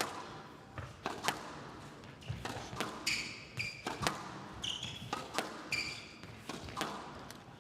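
Squash rally: sharp cracks of racket striking ball and ball hitting the walls at irregular half-second to one-second intervals, with short high squeaks of players' shoes on the court floor.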